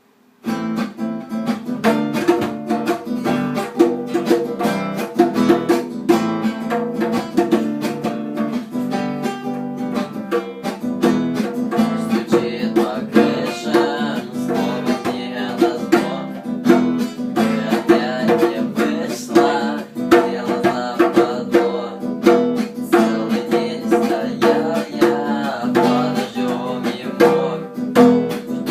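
Acoustic guitar music, strummed in a steady rhythm, starting about half a second in after a brief silence.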